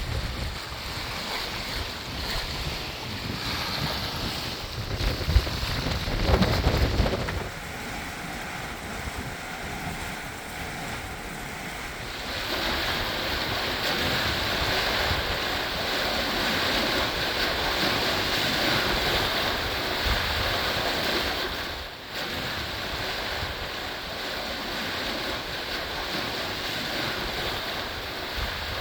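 Wind buffeting the microphone and water rushing past the hull of a sailing catamaran, with heavy gusty rumble in the first seven seconds. The sound shifts abruptly a few times.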